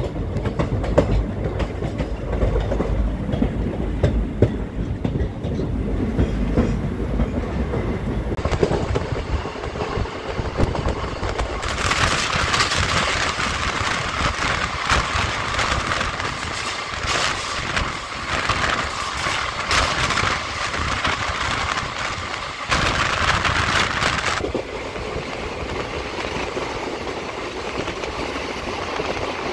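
Express passenger train heard from on board while running, wheels clattering on the rails over a steady rumble. From about twelve seconds in a louder hissing rush joins it for some twelve seconds, then cuts off suddenly.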